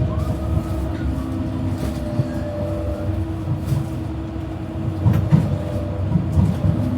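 Docklands Light Railway train heard from inside the carriage: a steady low rumble with a constant electric hum, and a few light clicks and knocks.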